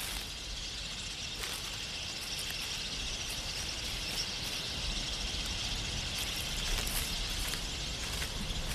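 Outback field ambience: a steady, high-pitched insect drone such as crickets, with a low rumble beneath and a few faint, brief bird chirps.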